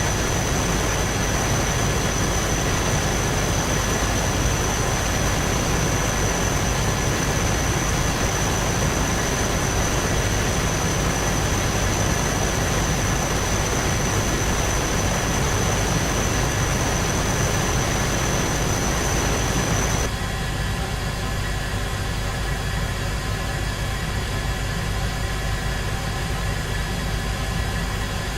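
Steady aircraft engine noise in flight, with a thin high whine over a broad rush. About two-thirds of the way through it changes abruptly to a slightly quieter, lower drone.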